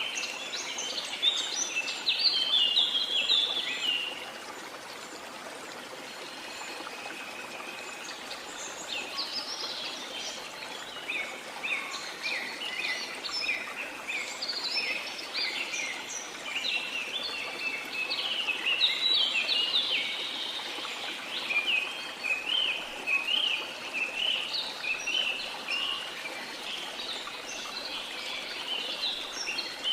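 Rainforest ambience: a steady hiss of rain or running water under many birds chirping and calling. The birds quieten for a few seconds shortly after the start, then grow dense again.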